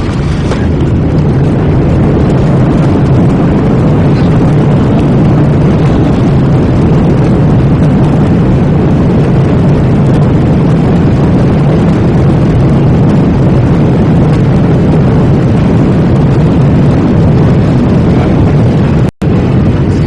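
Loud, steady jet engine and airflow noise heard inside the cabin of a Boeing 737-800 with CFM56 turbofans, deepest in the low range. The sound cuts out for an instant near the end.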